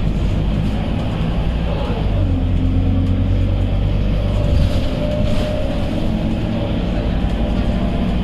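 Scania K230UB city bus's nine-litre five-cylinder diesel engine running under way, with road noise. The engine note drops about two seconds in, then holds steady.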